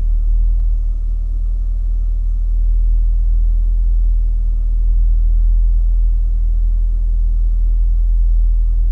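Stock exhaust of a C5 Chevrolet Corvette's 5.7-litre V8 running with a steady, even low rumble.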